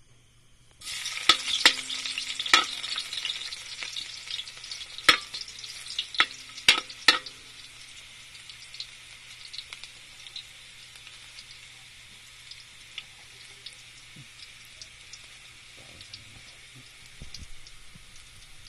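Chopped aromatics hit hot oil in a metal wok and start sizzling about a second in. There are sharp loud pops and spits for the first several seconds, then the sound settles into a steadier, quieter sizzle with occasional small crackles.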